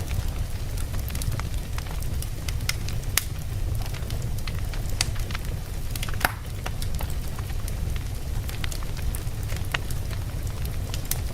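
Logs burning in a fireplace: irregular sharp crackles and pops over a steady low rumble of the flames, with the loudest pop about six seconds in.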